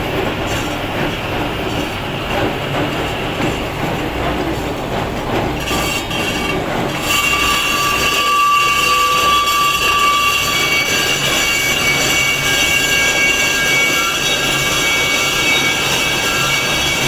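A power tool grinding stone, a steady loud grinding noise; about seven seconds in it grows a little louder and picks up high whining squeals.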